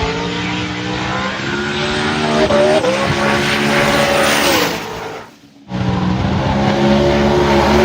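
Drag-racing engine at full throttle, rising in pitch with a brief dip about two and a half seconds in, then falling away. After a sudden break about five seconds in, another loud engine run holds fairly steady.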